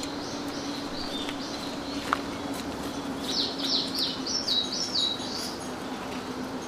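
Small songbird singing, high chirping notes, with a quick run of about six rapid notes a little past halfway. A faint steady low hum runs underneath.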